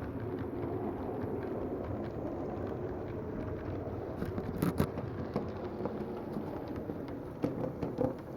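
HO scale model train rolling along the track, a steady rumble of motor and wheels on rail, with a couple of sharp clicks about halfway through and a few more near the end.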